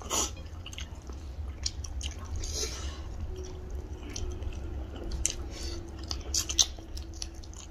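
Close-miked chewing of rice and chicken curry, with soft wet mouth clicks and smacks from people eating with their hands. A faint steady hum comes in about three seconds in.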